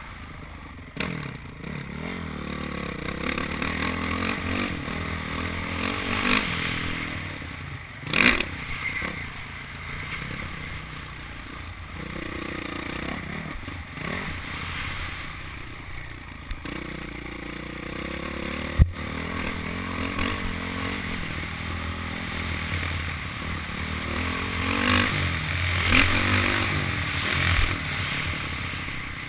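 Honda CRF450 single-cylinder four-stroke dirt bike engine revving up and down as it is ridden hard on a motocross track, with dirt and stones clattering and scraping. A single sharp knock about two-thirds of the way through.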